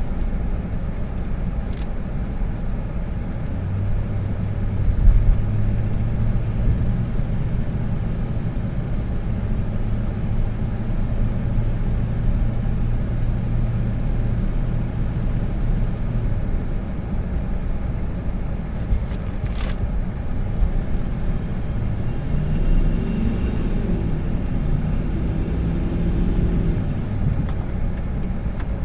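Vehicle engine running with a steady low drone, its revs rising and falling over a few seconds near the end. A single sharp click comes about two-thirds of the way through.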